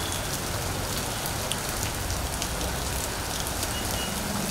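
Heavy rain falling on a wet street and pavement: a steady hiss with scattered sharp ticks of drops striking.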